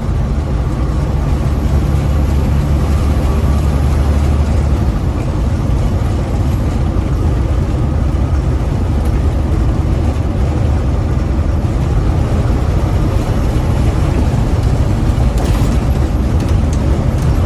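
Big rig's diesel engine and road noise heard from inside the cab while driving: a steady low rumble, heaviest in the first few seconds.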